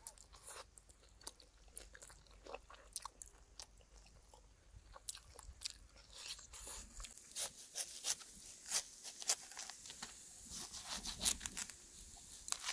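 A person biting and chewing crunchy food close to the microphone: irregular crackling crunches, sparser at first and busier and louder in the second half.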